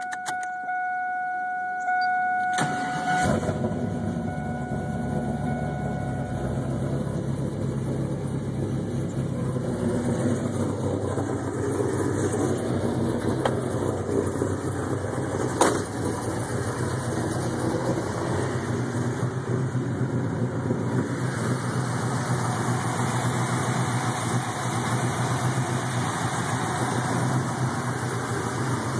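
A steady electronic warning tone sounds. About two and a half seconds in, a car engine cranks, catches and runs at a steady idle, and the tone stops soon after. A single sharp click comes about halfway through.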